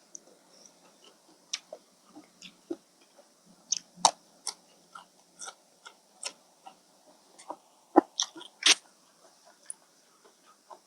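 A person eating close to the microphone, chewing rice noodles and fish balls in curry: irregular wet clicks and smacks, the loudest about four seconds in and again near the end.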